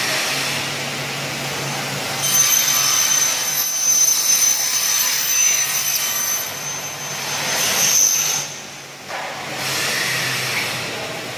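Double-head aluminium cutting saw running, its motors giving a steady hum; from about two seconds in to about eight and a half seconds a high whine rides on top as the blades cut through an aluminium profile.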